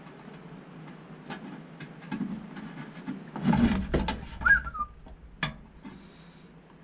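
Clicks and knocks of metal parts being handled and fitted, with a heavier thump about three and a half seconds in, a brief falling squeak just after, and a sharp click near the end.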